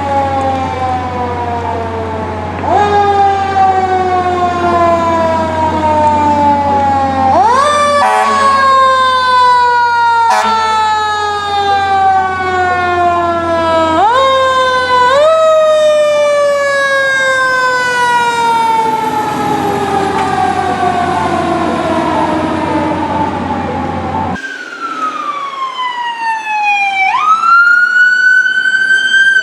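Fire truck siren, winding up sharply and then falling slowly in pitch, over and over, with a steady low hum beneath. About three-quarters of the way through the hum stops and a siren winds up again, starting to fall near the end.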